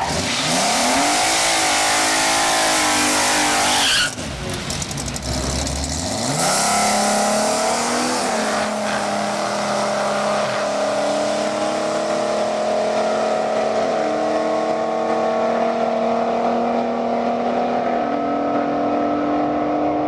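A drag car's engine held at high revs with loud tire noise for about four seconds, cutting off sharply. After a short lull it launches and accelerates hard, the engine pitch climbing and dropping back at each of about four gear changes.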